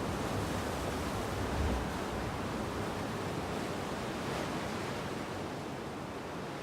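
Steady wash of sea surf, with wind gusting on the microphone and one stronger gust a little under two seconds in.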